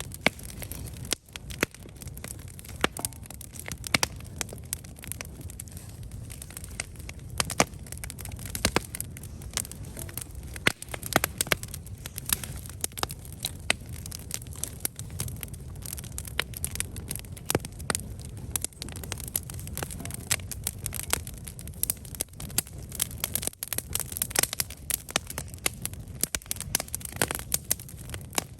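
Wood campfire burning, with frequent sharp, irregular crackles and pops over a steady low rumble of the flames.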